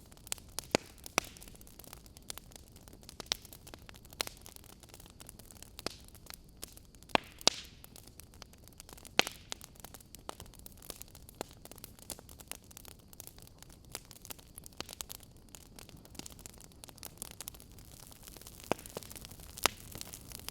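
Wood fire crackling: a low steady hiss of burning, broken by sharp irregular pops and snaps, a few of them much louder than the rest.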